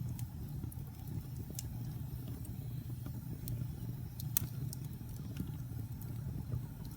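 Wood fire crackling in a fireplace: a steady low rumble with scattered sharp pops and snaps, the loudest a little over four seconds in.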